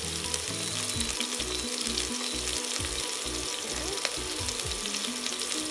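Hamburger meatballs frying in shallow oil in a stainless steel pot: a steady sizzle full of fine crackling pops.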